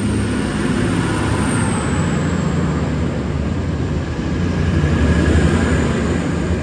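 Two coupled V/Line VLocity diesel railcar sets running through the station: a steady rumble of diesel engines and wheels that grows a little louder about five seconds in.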